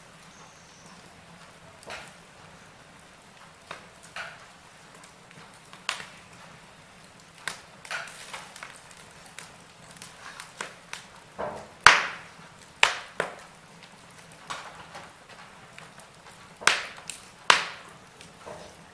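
Wood fire crackling: irregular sharp pops and snaps over a faint steady hiss, the loudest snap about two-thirds of the way through and two more near the end.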